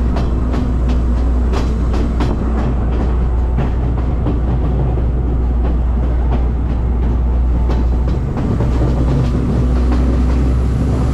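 Passenger train running along the track, heard from on board: a steady low rumble of wheels on rails, with irregular sharp clicks as the wheels pass over rail joints.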